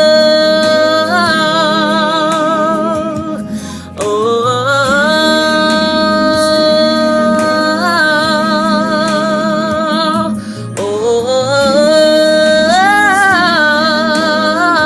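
Music: a voice sings three long wordless held notes with vibrato, each sliding up into the note, over a steady backing accompaniment.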